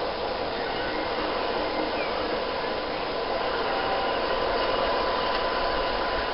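Steady rushing noise of a diesel-hauled passenger train on the move, heard from a coach window, with a faint steady whine throughout.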